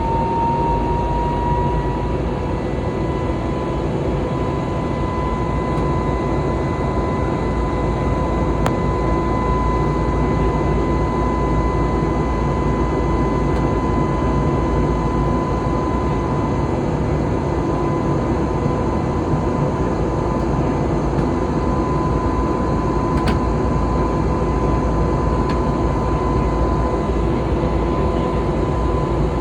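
Jet airliner engine and airflow noise heard inside the cabin: a steady rushing drone with an engine whine that rises slightly in the first couple of seconds, then holds one pitch.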